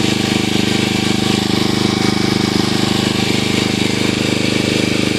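A small engine running steadily at a constant speed with a fast, even chug.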